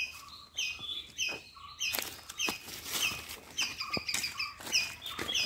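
A small bird repeating a short, high chirp about twice a second. From about two seconds in, the crunch and rustle of footsteps on dry leaf litter comes in under it.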